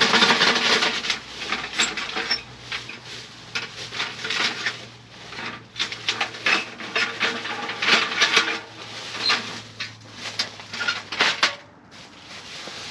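Irregular clattering, knocking and rubbing of objects being handled.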